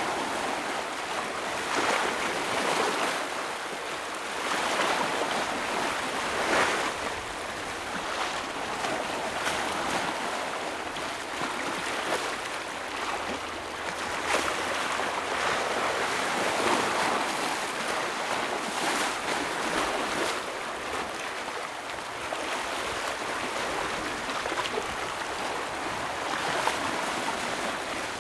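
Ocean waves breaking and washing over shoreline rocks, a continuous surf wash that swells every few seconds.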